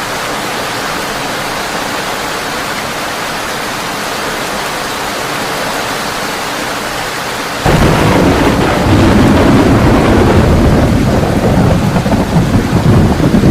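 Heavy rain falling steadily on a tin roof. A little past halfway through, a loud, deep thunder rumble starts suddenly and keeps rolling over the rain.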